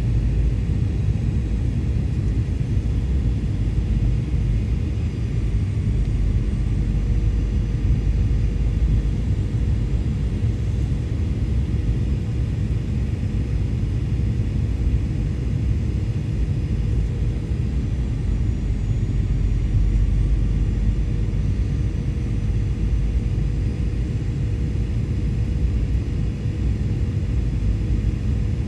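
Steady cabin noise inside an Airbus A320 airliner: a deep rumble of engines and airflow with a constant hum running through it.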